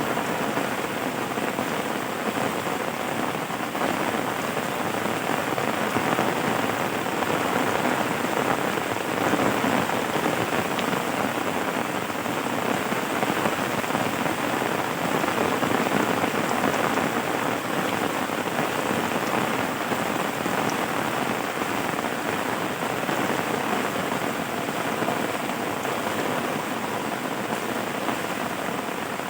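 Steady rain falling, an even continuous hiss with no thunder or breaks.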